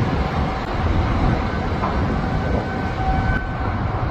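Steady low rumbling and rushing noise from a boat on open water, with a faint steady engine hum underneath.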